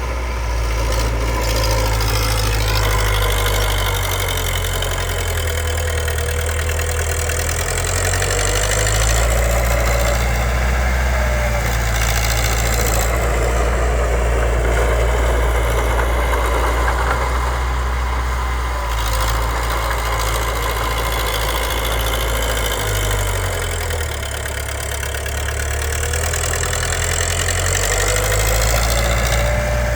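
Komatsu D20P crawler bulldozer's diesel engine running steadily as it works, its low note shifting a few times, dropping around the middle and rising again near the end.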